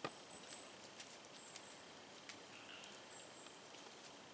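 Quiet woodland with faint, high, thin bird calls, each about half a second long, repeating roughly every second and a half. A single sharp click comes right at the start, and a few light ticks are scattered through.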